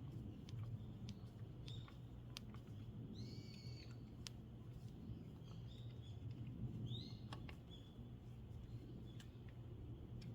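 Birds calling: short arched chirps repeated every second or two, with a few sharp light clicks, over a faint steady low hum.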